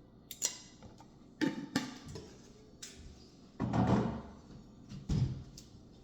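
A handful of sharp knocks and thuds with a longer rough rumble in the middle: kitchen things being handled and set down while cooking.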